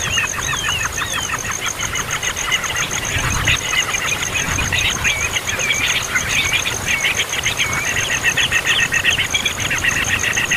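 Young baby birds calling noisily and without pause: rapid, high chattering chirps, dense and continuous. A steady, fast high-pitched pulsing runs underneath.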